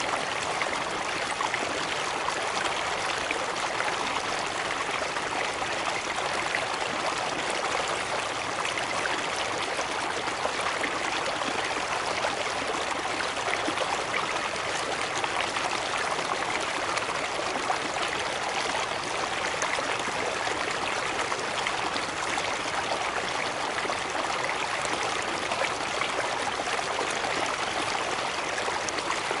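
Steady, continuous rush and splash of water falling over a cascade, even throughout with no breaks or changes.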